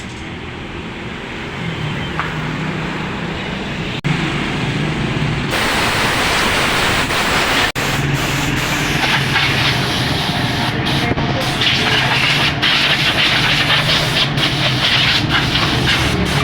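Small motor scooter engine running with a steady hum under a loud rushing of wind and road noise. The sound changes abruptly a few times.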